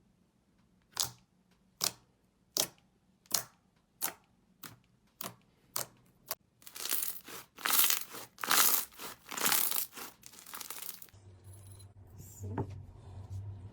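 Slime being worked by hand. First come a string of sharp popping clicks a little under a second apart, then longer, louder crackling bursts as it is pressed and squished. A low steady hum comes in near the end.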